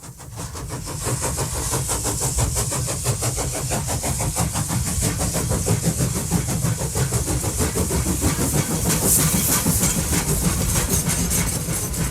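A railway locomotive running, with a rapid, even pulsing beat over a low rumble and a hiss on top; it fades in during the first second.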